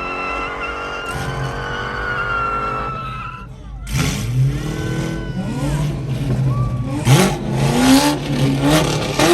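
Car tires squealing in a steady high tone for about three seconds. After a brief dip, car engines rev up and down repeatedly, with loud bursts of noise.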